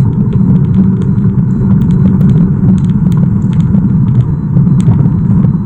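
Car driving at speed, a steady low rumble of road and engine noise heard inside the cabin, with scattered faint ticks.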